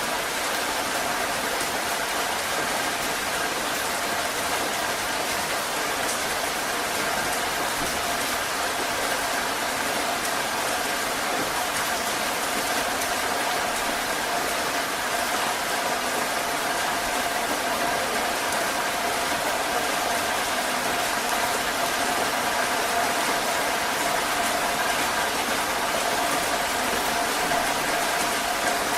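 Heavy rain falling in a steady, dense hiss, with a faint steady tone underneath.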